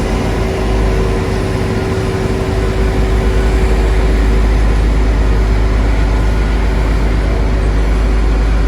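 Heavy diesel engine of road construction machinery running steadily with a deep rumble and a constant hum, getting a little louder about three seconds in.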